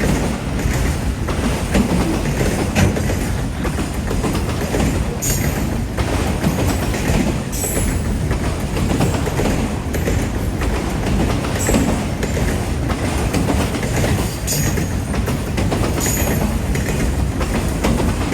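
Freight train cars rolling past at close range, a steady rumble with wheels clattering over the rail joints. Short high-pitched wheel squeals come in about five times.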